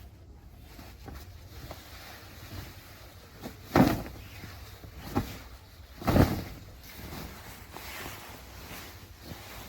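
Silk saree being handled: two loud, short rustling swishes about four and six seconds in, with a smaller one between them.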